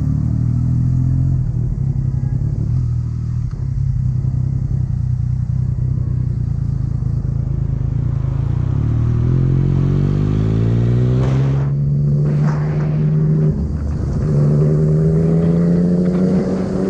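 Yamaha MT-09's three-cylinder engine running at steady revs, then accelerating with the pitch climbing, broken twice by brief dips at gear changes before rising again.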